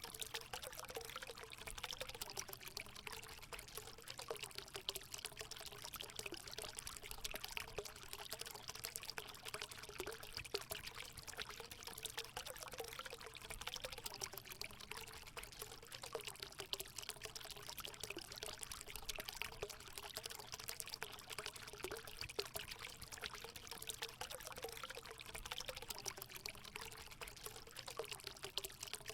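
Water running steadily into a hot spring pool: a continuous pouring splash with a wavering gurgle beneath it.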